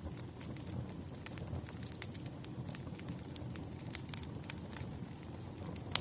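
Wood fire crackling: irregular sharp pops and snaps from burning logs over a steady low rumble of flames, with one louder pop near the end.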